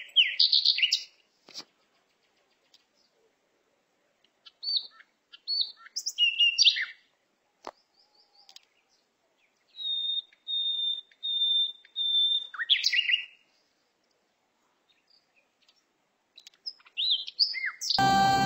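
Birds chirping in scattered short calls with stretches of silence between, including a run of five even whistled notes about ten seconds in.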